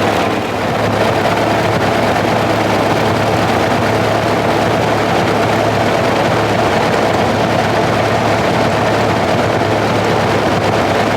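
Ferguson 35 tractor engine running steadily at a constant speed.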